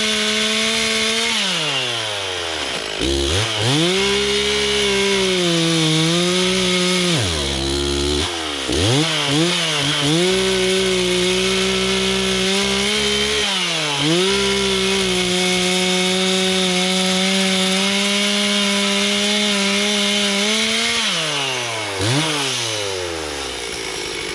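Stihl two-stroke chainsaw cutting through a downed tree at full throttle. The engine note sags as the chain bites into the wood and drops toward idle, then revs back up several times between cuts.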